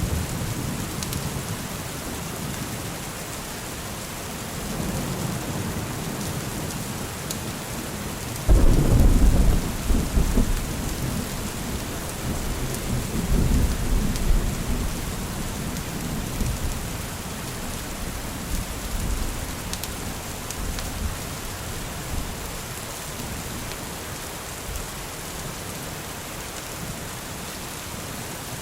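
Steady heavy rain falling, with rolling thunder: a sudden loud clap about a third of the way in that rumbles on in swells for several seconds, and softer distant rumbles before and after.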